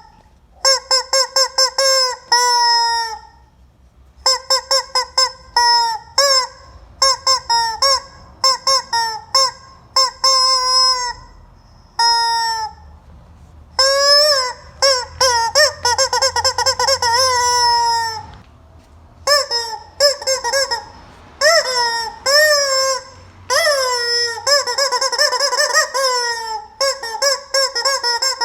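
Rubber chicken squeeze toy squawking over and over, in quick runs of short honks mixed with longer drawn-out squawks, with short pauses between runs.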